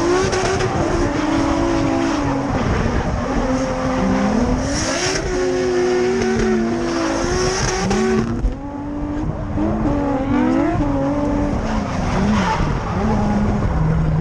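Drift car's engine revving up and down over and over as it slides, with tyres squealing. The squeal is strongest in the middle, and the engine briefly drops away a little past halfway before picking up again.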